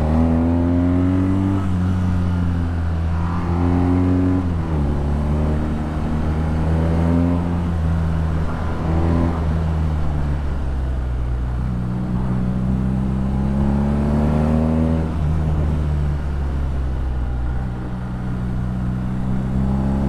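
BMW R nineT's air/oil-cooled boxer twin running through an Akrapovič exhaust under way, its pitch climbing and then dropping sharply several times as it pulls through the gears.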